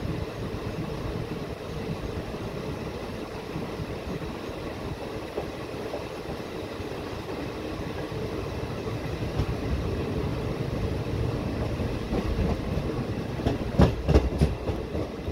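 Passenger train coach running at speed: a steady rumble of wheels on the rails and rushing air. Near the end comes a quick run of loud clacks as the wheels pass over the track.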